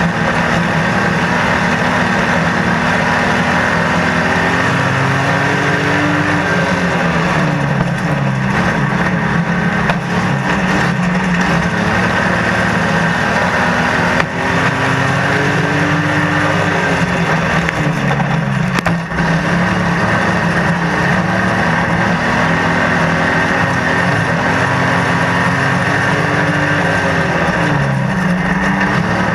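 Stockcar engine at racing speed, heard from inside the car's cabin. The revs rise and fall every few seconds under the throttle.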